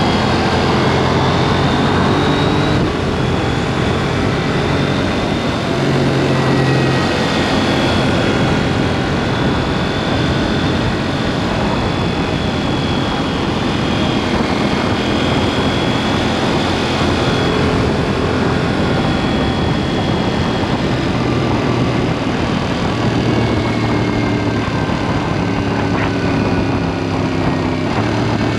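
KTM 790 Duke's parallel-twin engine running under way through an aftermarket SpeedPro Cobra SPX exhaust, heard close from under the seat, with wind and road noise. The engine note drifts gently up and down with the throttle, with no sudden breaks.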